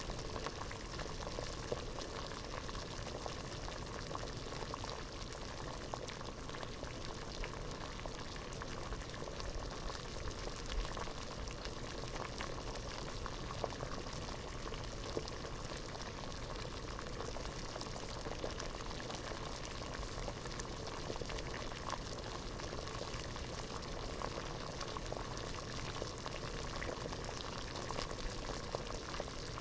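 Water at a rolling boil in a pot, a steady dense bubbling with many small pops and crackles throughout.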